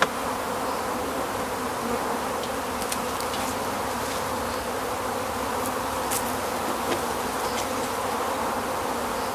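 Many honeybees flying and buzzing, a steady dense hum, with a few faint clicks.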